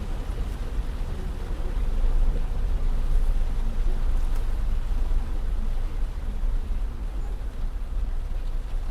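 A car driving along a road flooded by typhoon rain, heard from a dashcam inside the cabin: a steady, heavy low rumble with a noisy wash over it, growing a little louder about two seconds in.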